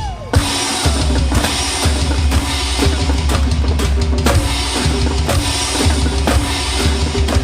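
A single drum hit, then about a second in a full drum-kit groove with a deep bass line starts and keeps going at a steady beat.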